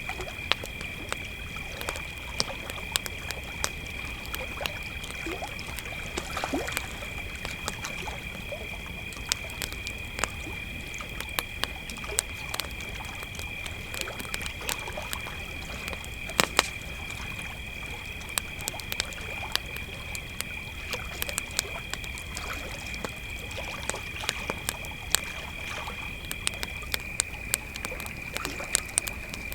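Crickets trilling steadily in two pitches, the higher one stopping near the end, over a campfire crackling with frequent sharp pops.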